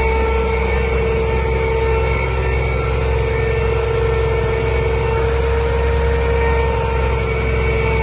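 Renault Camiva fire truck's engine idling steadily, a low, even engine note with a steady whine over it.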